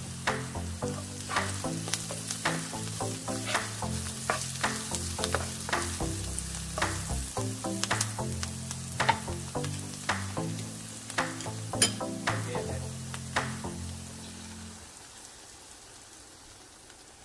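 Chopped onion and garlic sizzling in oil in a non-stick wok as they are stirred, with sharp irregular clicks of the utensil against the pan. Near the end the stirring stops and the sound falls to a faint hiss.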